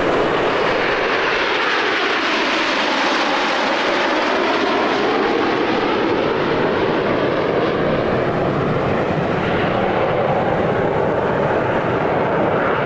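Jet aircraft of the Frecce Tricolori, Aermacchi MB-339 trainers, flying past with a loud, steady jet noise. A hollow sweeping tone slides down in pitch and then back up as they pass.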